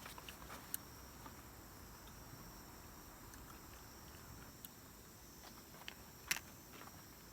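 Night chorus of grass insects (crickets) chirring steadily and faintly, with a few sharp pops and crackles from a wood campfire, the loudest a little past six seconds in.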